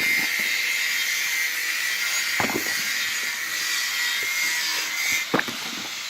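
A saw cutting steadily through metal, a continuous high hiss with a few knocks, stopping about five seconds in.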